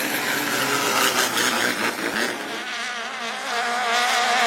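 Tuned engine running at high revs with a buzzing note. Its pitch wavers, and in the second half it settles into a steadier drone.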